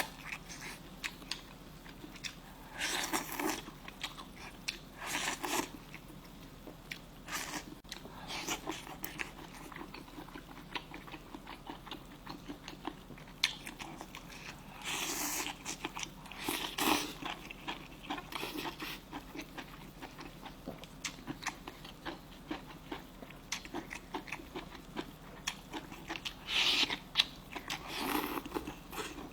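A person eating close to the microphone: chewing and biting, with scattered small clicks and a few short, louder noisy bursts.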